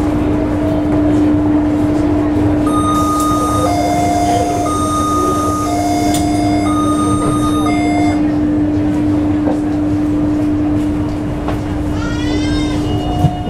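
Train running with a steady low hum and rumble. From about three seconds in, an electronic two-tone signal alternates high and low three times. Near the end comes a short rising whine.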